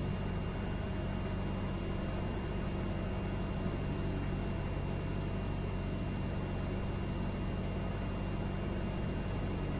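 Cessna 172R's four-cylinder Lycoming IO-360 engine and propeller running steadily, heard inside the cabin on the approach to landing, with a faint steady high whine over it.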